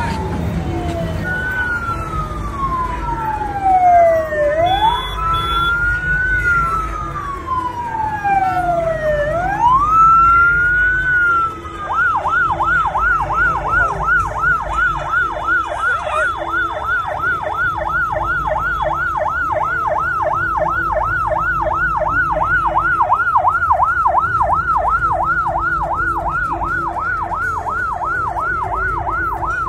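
Vehicle siren sounding a slow wail, each sweep falling in pitch and then snapping back up, then switching about twelve seconds in to a fast yelp of about three warbles a second, over a low rumble of traffic.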